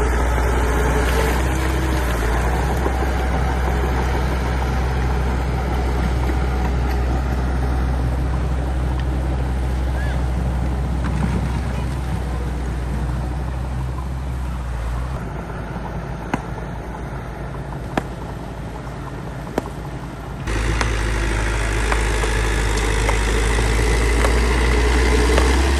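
Bulldozer's diesel engine running steadily with a deep drone. Past the middle it drops lower for a few seconds, with a few sharp clicks, then comes back suddenly near the end.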